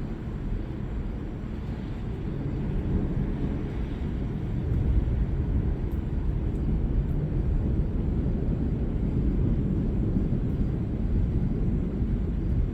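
Thunder rolling in a continuous low rumble that builds about two seconds in and then holds.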